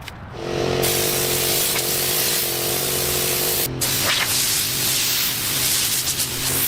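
A loud, steady spray hiss over a pitched motor hum, cut off briefly just before four seconds in and then resumed: a compressed-air or spray tool at work.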